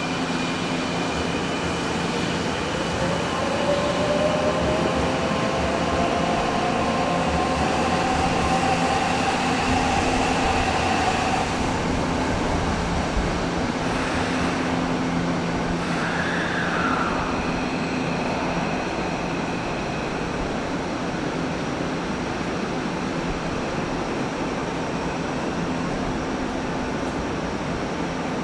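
Electric commuter train in an underground station: a steady rumble and hum, with the motors' whine rising in pitch for several seconds as the train gathers speed. A brief high tone comes about two-thirds of the way through.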